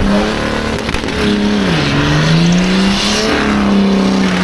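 Car engine held at high revs during a burnout, with the hiss of spinning tyres. The revs dip briefly about two seconds in and climb back up.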